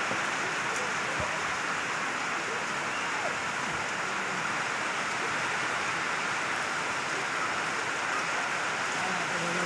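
Steady rain falling on an open field, an even hiss with no breaks.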